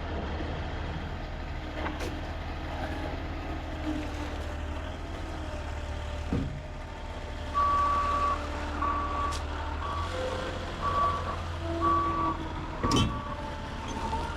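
Heavy diesel engine idling steadily, joined about halfway in by a vehicle's reversing alarm beeping roughly once a second.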